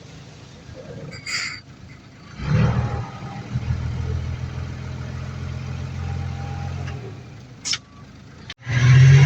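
Heavy diesel engine of earthmoving machinery running. It rises sharply in level about two and a half seconds in and then holds a steady drone, with two brief high hisses, one early and one near the end. An abrupt break just before the end gives way to a louder engine.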